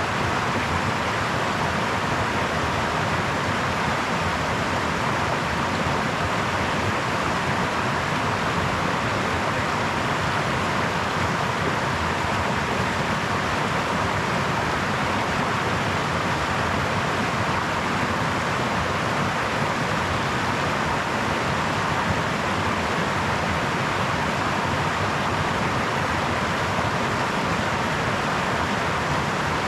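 Brook water running over stones: a steady, even rushing and babbling with no change.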